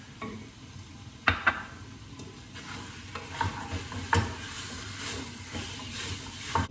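Meat and garlic sizzling in a stainless steel pressure-cooker pot as they are stirred, the utensil scraping and knocking against the metal pot. A few sharp knocks stand out, two close together about a second in and more near the middle and end.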